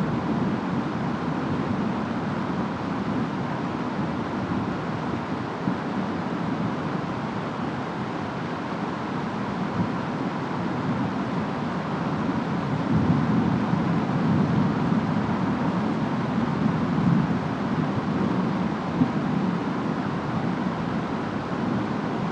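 Steady rainstorm ambience of rain and wind. A deeper rumble swells for several seconds just past the middle, with a few faint ticks.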